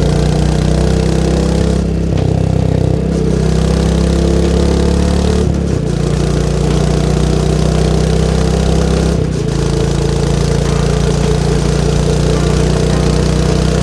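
Royal Enfield Meteor 350's single-cylinder engine and exhaust running under way. The note shifts in steps about two, six and nine seconds in, briefly dipping in loudness at the first and last.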